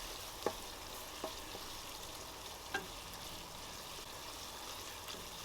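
Onions and tomato paste frying in hot oil in a pot: a steady sizzle, with three sharp clicks.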